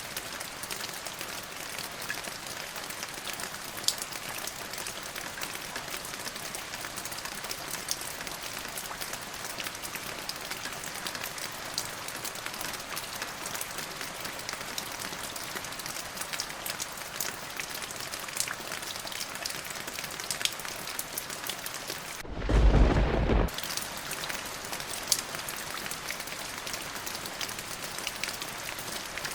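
Steady rain falling, with scattered individual drops ticking, and about three-quarters of the way through a short, loud clap of thunder lasting about a second.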